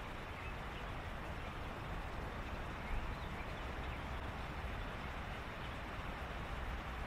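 Evening reed-bed ambience: a steady hiss over a low rumble, with faint short animal calls now and then and a brief low bump about three seconds in.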